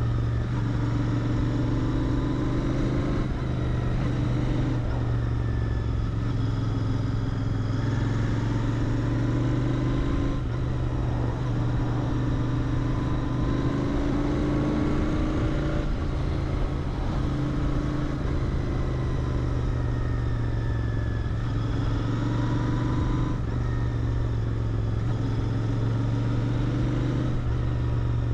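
Royal Enfield Interceptor 650's 648 cc parallel-twin running through its stock exhaust while riding. The engine note climbs gently, then drops back and climbs again every few seconds as the throttle and gears change.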